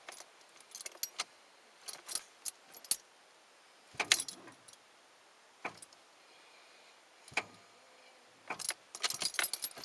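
Keys jangling and clinking in several short clusters of metallic clicks, the busiest near the end.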